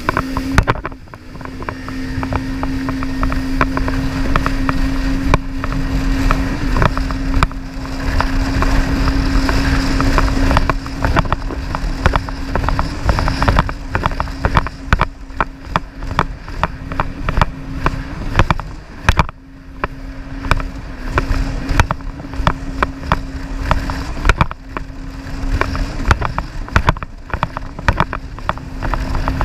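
Jet ski engine running at a steady speed, with a brief dip about two-thirds of the way through. Dense irregular knocks and buffeting run over it throughout.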